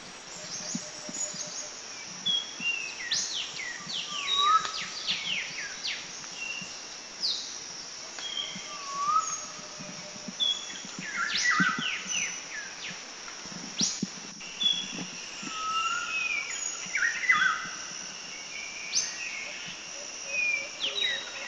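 Several forest birds chirping and calling: many short whistled notes and quick downward-sweeping chirps, scattered irregularly over a steady high hiss.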